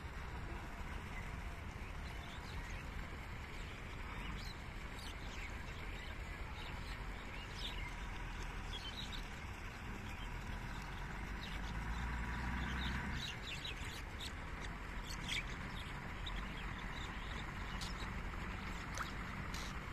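Small birds chirping now and then over a steady low outdoor rumble, with a heavier low rumble that swells and fades about twelve seconds in.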